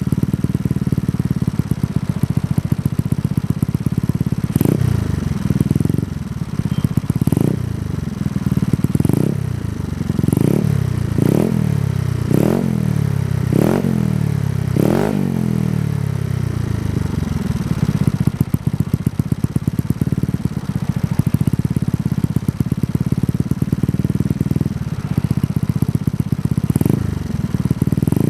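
Yamaha Mio scooter's single-cylinder engine breathing through a Kenochi K1 racing exhaust. It idles, then is blipped about nine times in quick succession, each rev rising and falling in pitch, then settles back to idle with two more short blips near the end.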